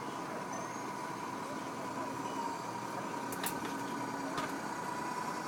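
A boat's engine running steadily, with a constant high tone held over the engine noise.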